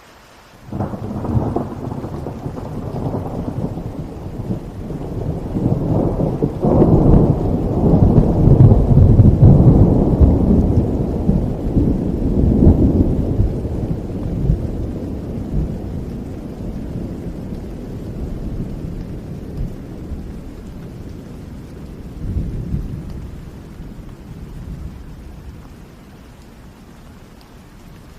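A long roll of thunder over steady rain. It breaks suddenly about a second in, rumbles loudest in the middle, and dies away slowly, with a last smaller swell near the end.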